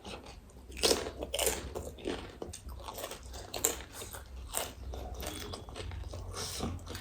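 Close-up eating sounds: crisp pani puri shells being bitten and chewed with irregular crunches, the loudest about a second in.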